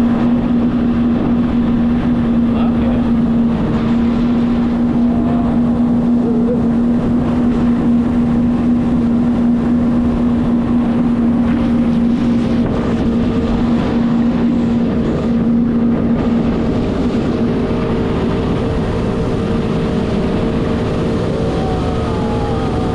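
Jet ski engine running steadily at speed, with rushing wind over the microphone; about two-thirds of the way through the engine note shifts to a higher pitch.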